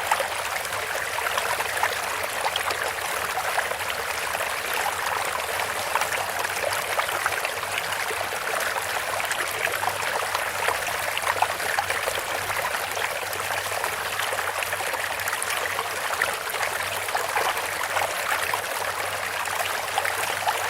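Bamboo water fountain: water trickling and splashing steadily, with many small droplet splashes and no pauses.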